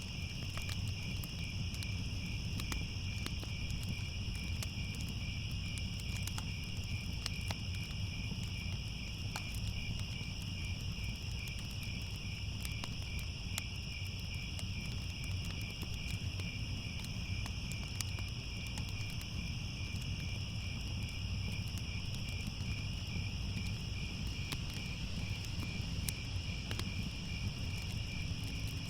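Crickets chirping in a steady, unbroken chorus, with the scattered crackle and low rumble of a burning fire underneath.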